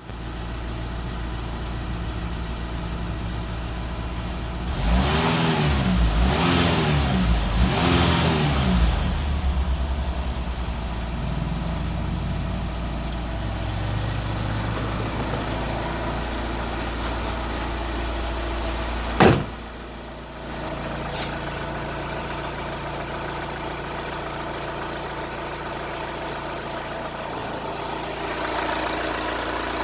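Volkswagen T5 Transporter engine idling, with three quick revs that rise and fall about five seconds in before it settles back to idle. A single sharp thump, the loudest moment, comes about two-thirds of the way through.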